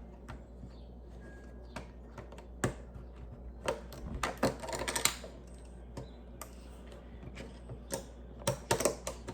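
Plastic Lego pieces clicking and clattering as they are handled and pressed together: scattered single clicks, with a busier rattle about four seconds in and again near the end.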